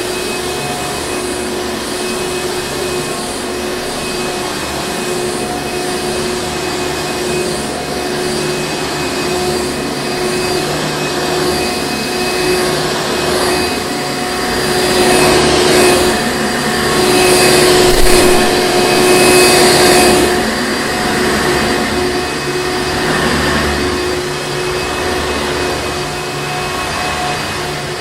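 Hoover Encore Supreme vacuum cleaner running steadily with a constant motor whine and airflow rush. For several seconds in the middle it gets louder, with a pulsing hiss, then settles back.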